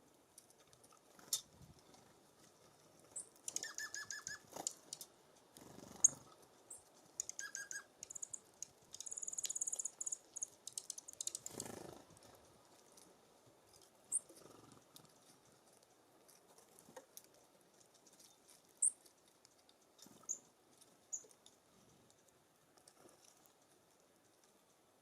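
Small songbirds at a seed feeder: scattered short, high chirps and a couple of quick runs of repeated notes, among faint taps and scuffs of birds working the feeder.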